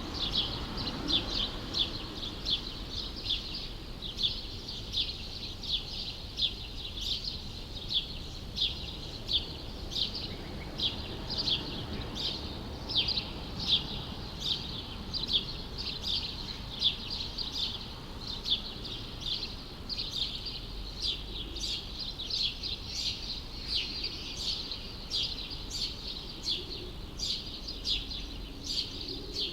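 A small bird chirping over and over, about two short, high chirps a second without a break, over a faint low rumble of city background noise.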